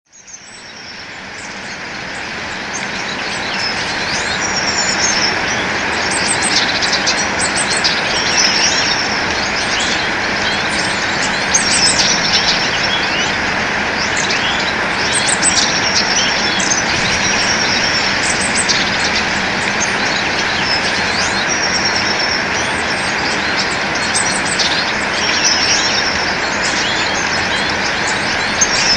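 Many birds chirping, with short high calls repeating throughout, over a steady hiss. The sound fades in over the first few seconds.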